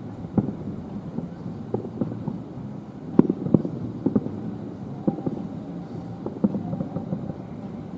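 Aerial fireworks shells bursting in quick, irregular succession, a string of deep booms with a rolling rumble between them; the loudest pair of bangs comes about three seconds in.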